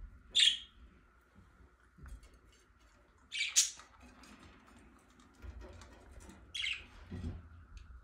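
Caged pet birds giving three short, high chirps, each a few seconds apart.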